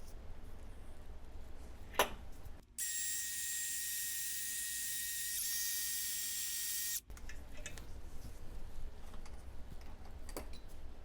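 A sharp click, then a steady hiss of spray or air that starts and stops abruptly and lasts about four seconds. Around it, a low rumble with light clicks and taps.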